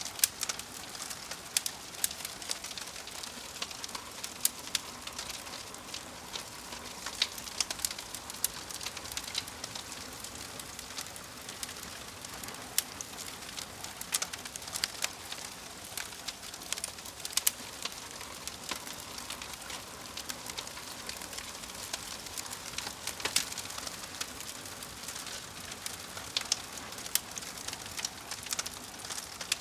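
Wood fire in a fireplace crackling, with irregular sharp pops from the burning logs over a steady soft hiss.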